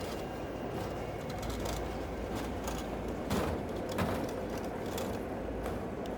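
Layered city-ambience soundscape: a steady low rumble under a haze of noise with scattered light clicks, and two louder knocks a little after three and at four seconds in.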